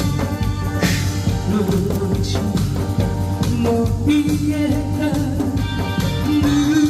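A singer performing a Korean pumba song live over loud accompanying music with a steady drum beat; a long held sung note begins about four seconds in.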